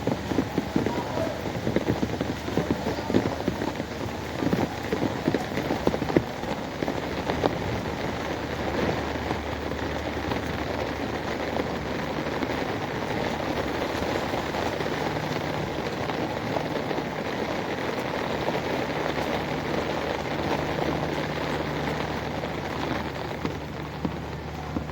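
Heavy rain falling and splattering on a hard surface, dense with sharp drop impacts at first, then a steadier wash. A low steady hum comes in about a third of the way through.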